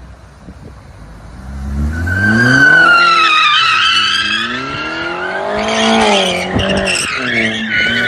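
A car drifting: the engine revs climb and fall several times while the tyres squeal. It starts as a low rumble and turns loud about two seconds in.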